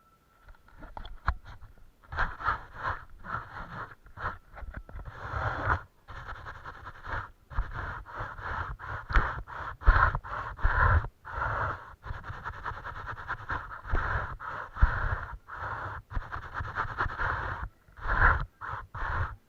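Brush scrubbing paint across a large painting surface: quick, irregular scratchy strokes with dull knocks, broken by short pauses about six and seven seconds in and again near the end.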